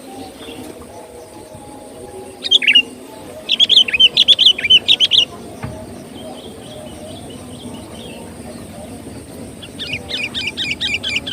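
Sooty-headed bulbul (kutilang) singing lively: a short call about two and a half seconds in, a quick burst of bubbly chattering notes, then a rapid run of repeated notes near the end.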